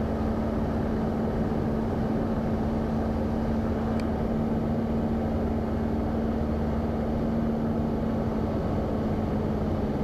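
Piper Tri-Pacer's piston engine and propeller droning steadily in flight, heard from inside the cockpit, with a steady hum under the noise.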